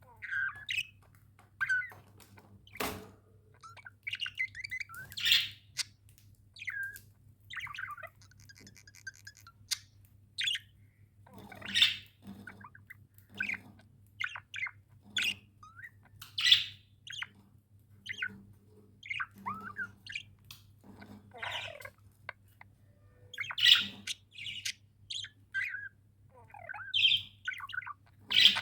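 Pet budgerigars chirping and chattering in short, separate calls, with a louder sharp squawk every few seconds. A low steady hum runs underneath.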